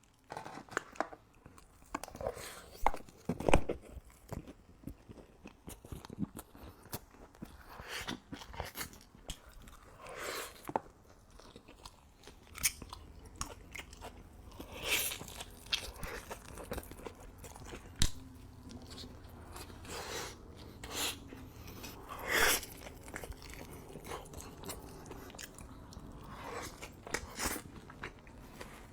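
Close-miked eating: a person biting into and chewing food, with crisp crunches scattered irregularly among quieter wet chewing sounds.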